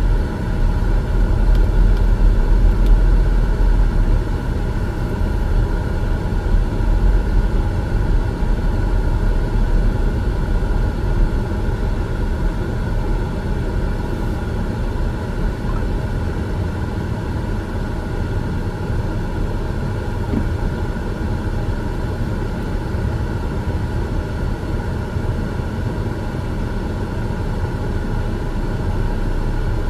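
Car driving along: a steady low rumble of engine and road noise, slightly louder in the first few seconds.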